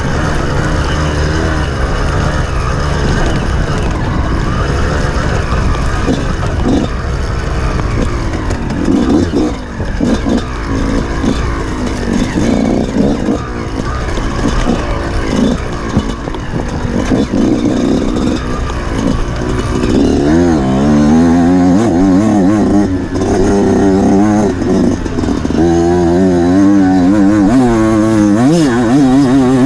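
Off-road motorcycle engine running under constantly changing throttle, its pitch rising and falling. It revs harder and more often in the last third.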